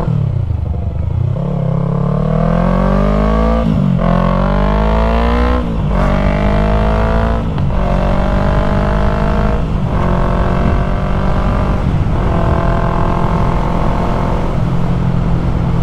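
2020 Yamaha MT-03's parallel-twin engine through an aftermarket full-system exhaust, accelerating up through the gears. The pitch climbs and drops at each upshift, several times in the first half, then the engine runs at a nearly steady pitch with small throttle changes.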